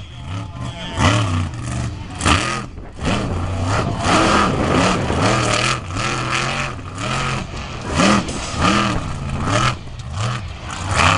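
Monster truck engine being revved over and over, its pitch rising and falling about once a second in repeated blips.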